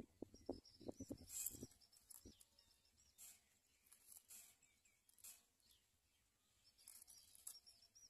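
Faint, high, wavering bird chirps, about a second in and again near the end. A few soft low thumps sound in the first two seconds.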